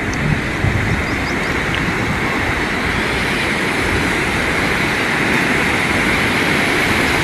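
Steady rushing wind noise on the microphone, with low rumbling gusts, rising slightly toward the end.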